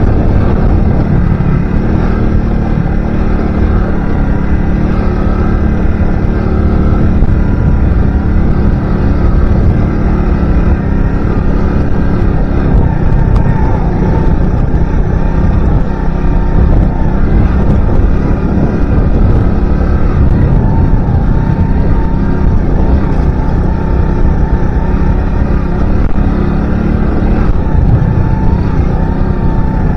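Alpha 110 cc motorcycle's single-cylinder engine running steadily while riding, with a heavy low rumble and slight shifts in engine pitch; the new bike is being run in.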